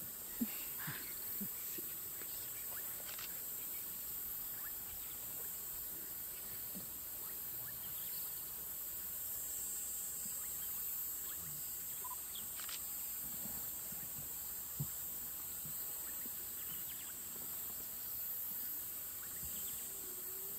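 Steady high-pitched insect chorus of crickets or cicadas, with a few faint clicks scattered through it.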